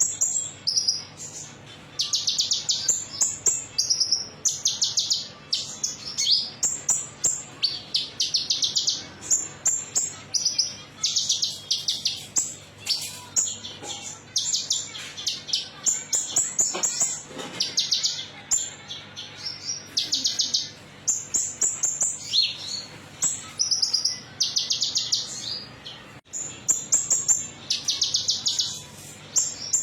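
Kolibri ninja (brown-throated sunbird) singing: rapid, high, metallic-sounding trills of quickly repeated notes in short bursts of about half a second to a second, one after another with brief pauses.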